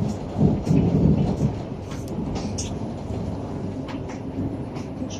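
Double-decker passenger train running, heard from aboard: a steady low rumble with scattered light clicks, swelling louder for about a second early on.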